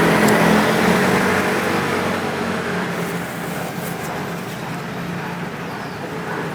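Street traffic noise: a motor vehicle running close by, loudest at first and fading over the first few seconds into a steadier background rumble.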